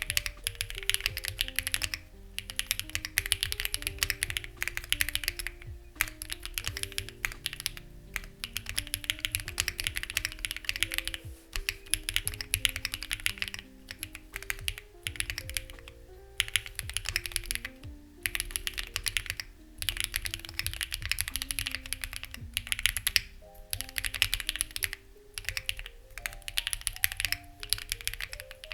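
Fast, continuous typing on a Lucky65 v2 mechanical keyboard with stock, unlubed HMX Ziwei switches and CMK-style keycaps, breaking off in brief pauses every few seconds. Soft background music with sustained low notes plays under the keystrokes.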